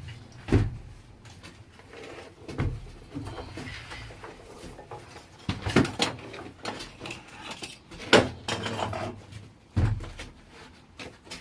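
About five sharp knocks and clunks with smaller clatter between them, as buckets of excavated rock and soil are hauled up a shaft and handled, over a faint low hum.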